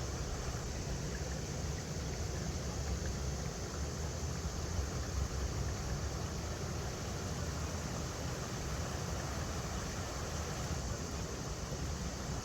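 River water rushing steadily over rocks, a continuous even noise weighted toward the low end.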